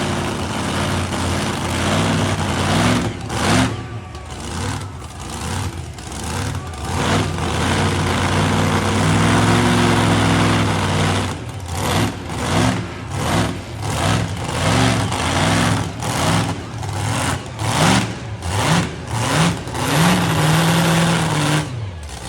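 Heavy engine of a pulling truck or tractor running loud, its pitch gliding up and down. From about eleven seconds in it is revved in short repeated surges, about one a second.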